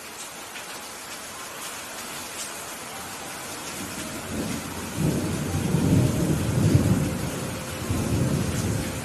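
Steady rain falling, with a low rumble of thunder that builds about four seconds in, stays loud for a few seconds and dies away near the end.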